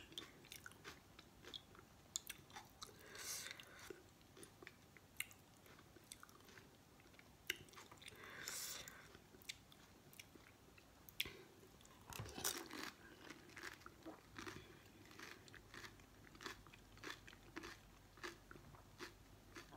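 Close-up eating of pani puri: crisp fried puri shells cracking and crunching between the teeth, with wet chewing of the water-filled shells. Sharp crunches come irregularly throughout, with a few longer noisy swells in between.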